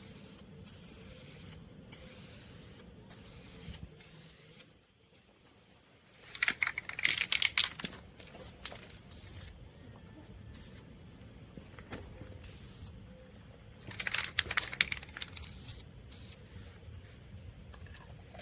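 Aerosol spray paint can in two short bursts, the first about six seconds in and the second about fourteen seconds in, with low steady background noise between.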